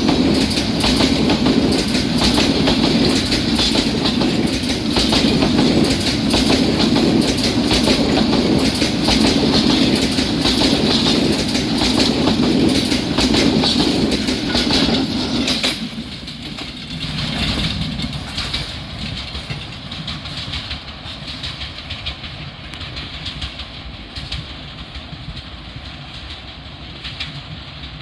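Meter-gauge train passing close by, its wheels clacking over rail joints in a fast, steady rhythm. About halfway through, the noise drops suddenly and leaves a quieter rumble that slowly fades.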